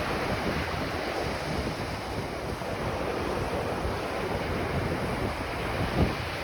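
Ocean surf washing onto a beach in a steady, dense rush, with wind buffeting the microphone in low rumbles; a brief low gust about six seconds in.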